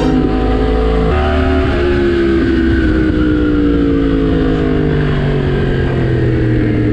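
Yamaha MT-10 inline-four motorcycle engine running under way. Its pitch shifts about a second in, then falls slowly and evenly as the revs come down.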